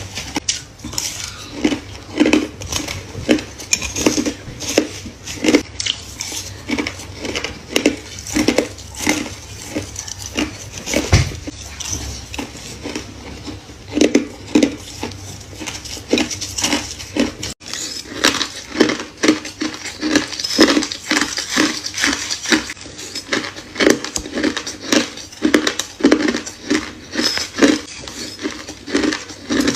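Close-miked biting and chewing of crushed ice and shaved foam ice: a steady run of crisp crunches, about one to two a second, with a momentary break a little past halfway.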